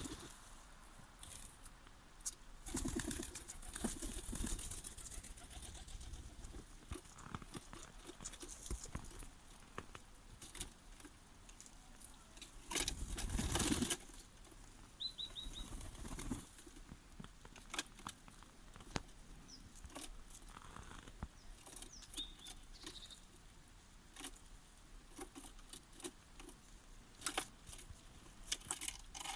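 Small birds and animals moving about in a winter forest: scattered rustles and light taps, a louder rush of wing flapping about halfway through, and a quick run of high bird chirps just after it.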